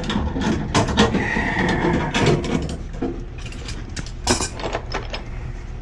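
Gas pipe fittings and hand tools being worked, giving metallic clinks and a few sharp knocks, the loudest about four seconds in, over a steady low hum.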